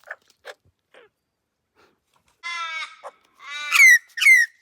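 A young bird calling: three harsh, squawking calls, the last two loud and sliding down in pitch, after a few faint clicks in the first second. From a fledgling that seems to have lost its parent, the calls are those of a young bird begging for food.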